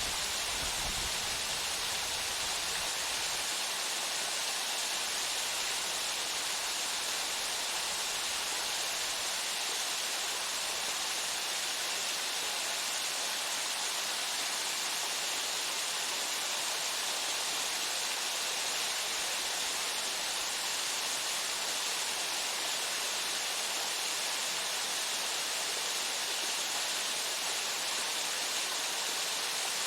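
Waterfall: a steady, even rush of falling water with a hissy edge, with a faint low rumble that dies away in the first few seconds.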